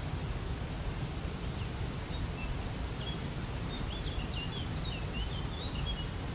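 Steady rush of a waterfall, with a bird's short high chirps and twitters from about a second and a half in.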